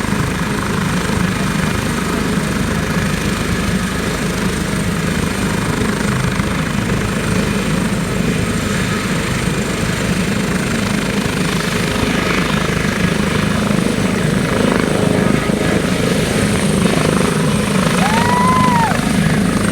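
Ambulance helicopter's rotor and turbine running close by: a steady, loud whir with a low rotor throb, growing a little louder toward the end. A short rising-and-falling tone sounds briefly near the end.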